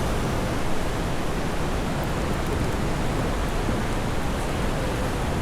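Steady rushing noise of wind on the microphone, heaviest in the low end, with no distinct events.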